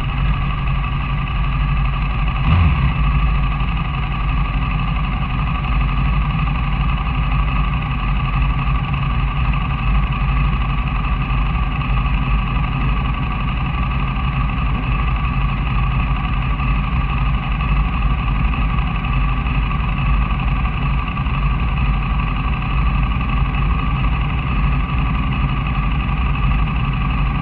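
Engine running steadily at constant revs, with no revving up or down, and a single brief thump about two and a half seconds in.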